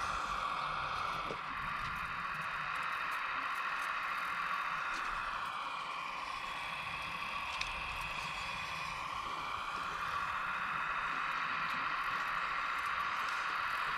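Electric hydraulic pump motor of a radio-controlled model excavator, whining steadily. Its pitch sags for a few seconds around the middle, as the motor slows under load, then rises back.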